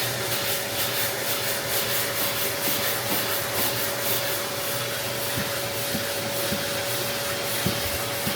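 Sandpaper rasping over body filler on a car fender in even, repeated strokes, with a steady hum underneath.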